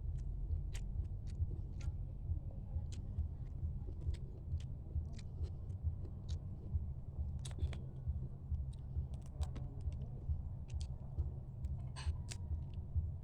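Eating mud crab at close range: irregular sharp clicks and crunches of shell being cracked and chewed, over a steady low rumble.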